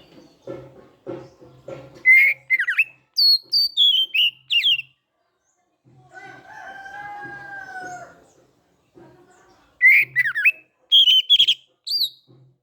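Oriental magpie-robin (kacer) singing loud, rapid whistled phrases with sharp sliding notes, in two bouts. Between the bouts a rooster crows once, a single call of about two seconds.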